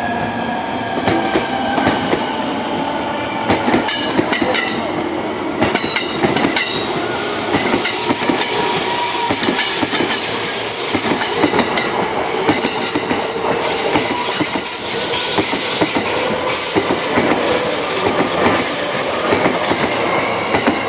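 A train running on rails: a steady, loud rush with many short clicks and knocks throughout, and a few faint steady high tones in the first few seconds.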